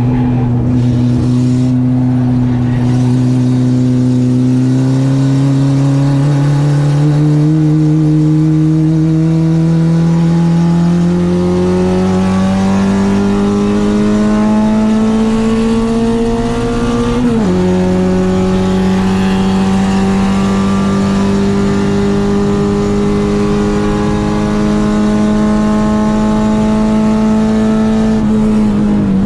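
Citroen AX's eight-valve four-cylinder engine on twin Weber 40 carburettors pulling under load, its pitch climbing slowly for a long stretch. About two-thirds of the way in the note drops sharply at an upshift, then holds and creeps up again before falling near the end as the driver lifts off.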